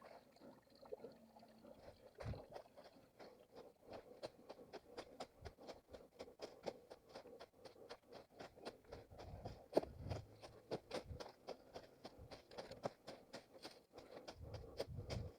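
A runner's footsteps on rough ground, a quick, even rhythm of about three steps a second, with a few low rumbles near the middle and the end.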